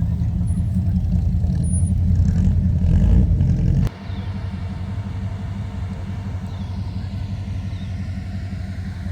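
A car engine running close by with a low rumble that grows louder over the first three seconds, then drops off suddenly about four seconds in to a steady, quieter rumble.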